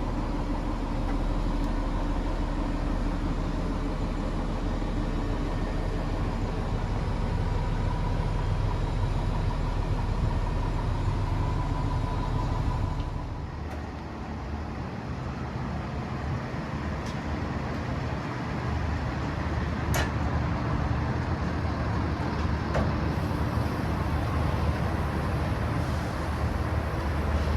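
Kenworth T370's 8.9 L Paccar PX-9 diesel engine idling steadily. About halfway through it drops in level and changes in tone, and a couple of sharp clicks sound later on.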